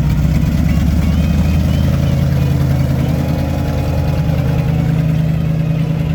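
Car engine idling with a steady, low note, cutting off abruptly near the end.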